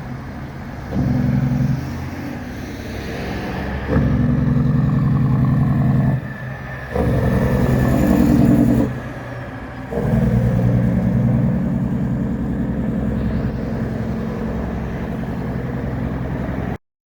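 Cabover semi truck's diesel engine pulling hard in several loud surges, with short dips in between as it shifts through the gears; the sound cuts off suddenly near the end.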